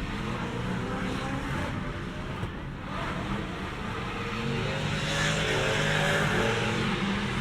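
Car engine running, its pitch rising and falling as it revs, growing a little louder over the last few seconds.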